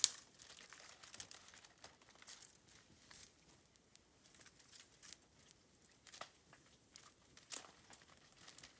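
Bamboo burning in an open fire, crackling with scattered sharp pops and snaps. One loud pop comes right at the start.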